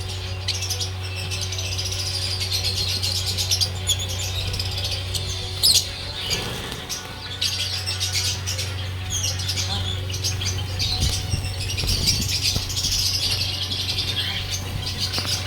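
Many small cage birds in an aviary chirping and chattering together in a dense, continuous twittering, with a few sharp clicks and wing flutters. A steady low hum runs underneath.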